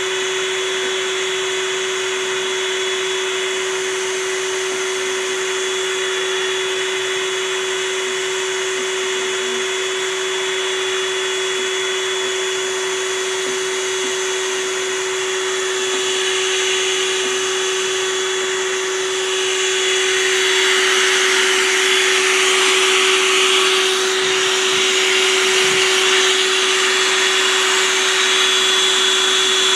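A small motor running steadily, with one constant hum and a rushing, airy hiss; the hiss grows louder about two-thirds of the way through.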